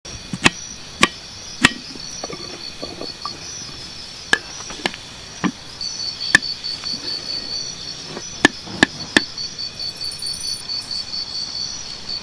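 Insects chirping in a steady, rapid pulsing trill, with about ten sharp knocks at irregular intervals over it.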